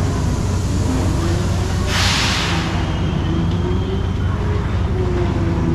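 Hurricane carnival ride machinery running with a steady low rumble, with a short burst of hiss about two seconds in.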